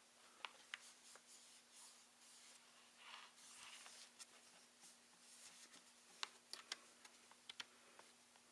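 Faint handling sounds from a partly reassembled laptop: scattered sharp plastic clicks and taps with brief rustling in between.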